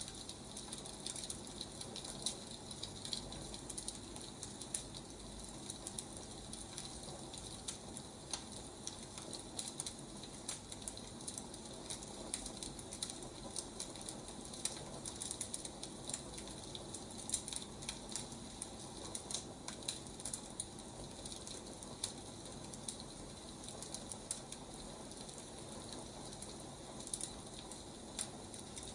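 Wood fire crackling: a steady hiss with frequent, irregular pops and snaps.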